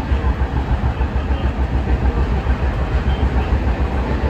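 Kita-Osaka Kyuko 9000 series electric train running along the line: a steady noise of wheels on rail over a pulsing low rumble.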